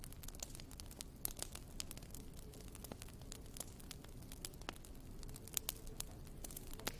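Wood fire crackling in a fireplace: irregular sharp pops and snaps, several a second, over a low steady rumble of the burning logs.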